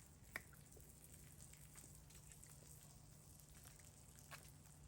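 Near silence: a faint steady low hum with two faint ticks, one just after the start and one near the end.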